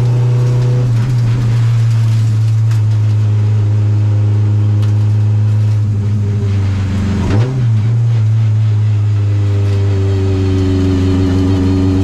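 Subaru rally car's engine heard from inside the cockpit, running loud and steady under load up a hillclimb, with a brief break and recovery in the note about seven seconds in and a wavering note near the end as the car slows for a bend.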